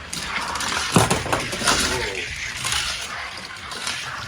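Two die-cast toy cars racing down a toy racetrack: a sharp clack as they set off, then a steady rattling roll of their small wheels on the track, with a loud knock about a second in.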